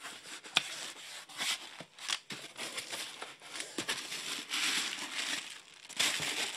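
Paper packaging crinkling and rustling while a shipping box is unpacked, with scattered sharp clicks and knocks of handling.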